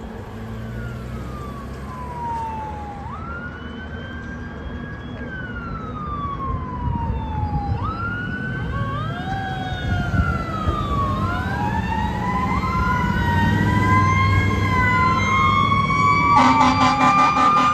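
Fire apparatus sirens wailing, getting louder as they approach: at first one siren sweeping down in pitch and jumping back up every few seconds, then two or three sirens overlapping over a low engine rumble. Near the end a steady horn blast with a rapid pulsing joins in.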